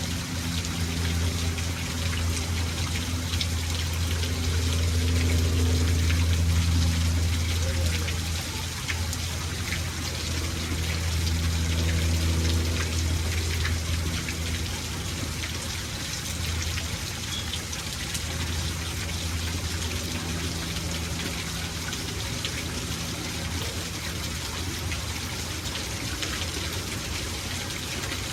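Steady rainfall, a continuous hiss scattered with small drop ticks, over a low hum that swells louder twice.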